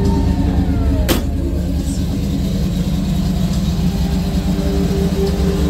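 Classic Chevrolet Impala's V8 engine idling steadily, with one sharp click about a second in.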